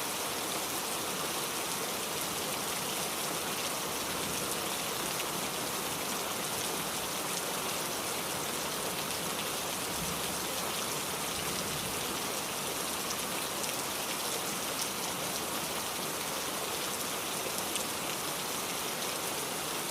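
Steady rain falling and pattering on a surface, a dense even hiss of many small drop impacts.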